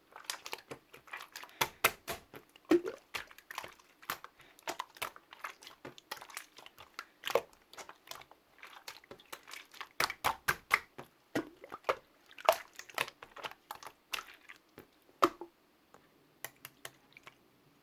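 Slime being squeezed and kneaded by hand, making irregular wet clicks and pops. They stop about fifteen seconds in, with a few faint ones near the end.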